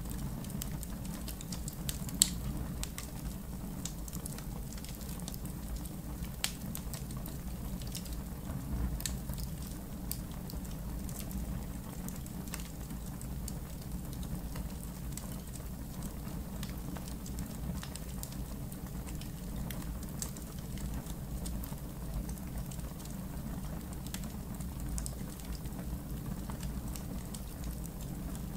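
Campfire crackling, with scattered sharp pops over a steady low rumble; the loudest pop comes about two seconds in.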